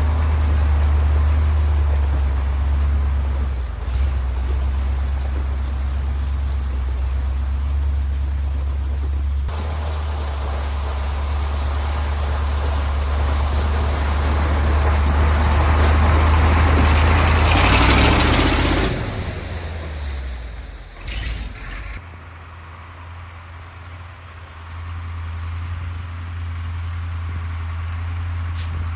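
KAMAZ 4310 6x6 truck's V8 diesel engine running with a deep, steady rumble while driving off-road. About two thirds of the way through, a loud rush of hissing or splashing noise swells and dies away. After a cut the engine is heard quieter and steady, near idle.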